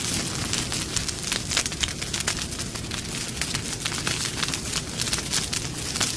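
Wood campfire burning with dense, irregular crackles and pops over a steady low rumble of flames.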